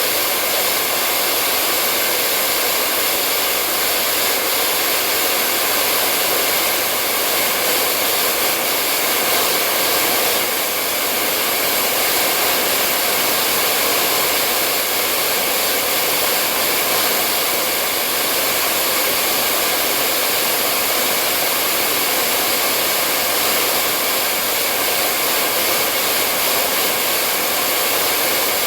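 Hair dryer running steadily: an even, unchanging whoosh of blown air with a faint motor whine.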